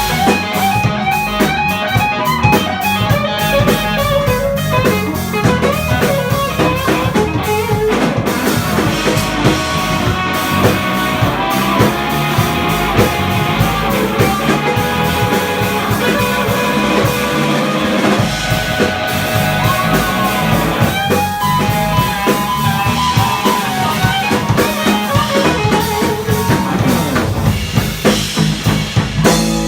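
Live funk-jazz band playing: guitar lines over drum kit, bass and piano.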